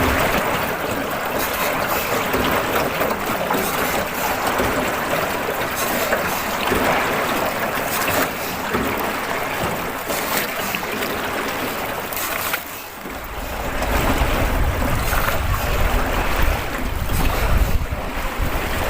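Steady rushing noise of wind and water on a small river boat. About two-thirds of the way through it dips briefly, then heavy wind buffeting on the microphone sets in.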